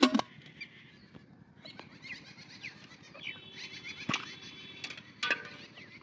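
Small birds chirping, many short rising and falling calls, with three sharp clicks: one at the start, the loudest about four seconds in, and one just after five seconds.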